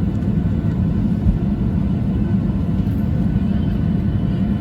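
Steady low rumble of a jet airliner's engines and airframe heard from inside the passenger cabin while the plane is on the ground after landing.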